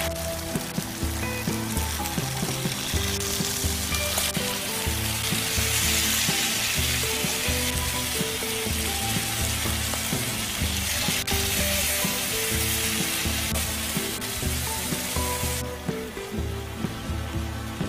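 Tofu sizzling in perilla oil in a frying pan while a wooden spatula spreads seasoning sauce over it. The high sizzle cuts off suddenly near the end. Background music plays underneath.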